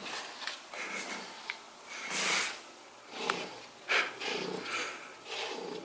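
A pet grooming brush rustling against a cat's fur and the floor in a series of soft, irregular strokes, the loudest about two seconds in.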